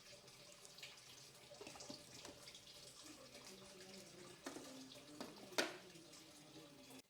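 Water running from a tap into a sink, with light clatter throughout and one sharp knock about five and a half seconds in. The water cuts off abruptly near the end.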